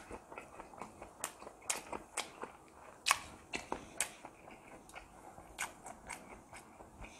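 Close-up chewing and mouth sounds of a person eating, with irregular wet clicks and smacks; the loudest smack comes about three seconds in.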